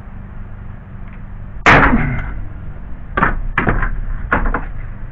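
Hammer blows on steel car body metal: one heavy, ringing strike about a second and a half in, then a quick run of several lighter blows near the end.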